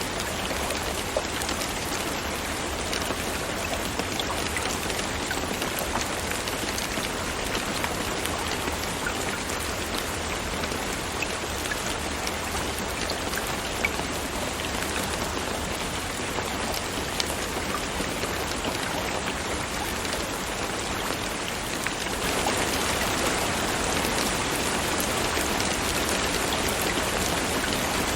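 Steady rain falling, with individual raindrops ticking sharply here and there; the rain gets a little louder about 22 seconds in.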